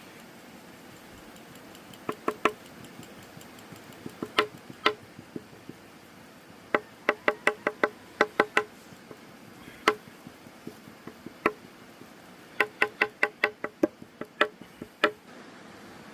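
Knife chopping on a wooden cutting board: sharp, ringing knocks in quick runs of two to six strikes, with short pauses between the runs.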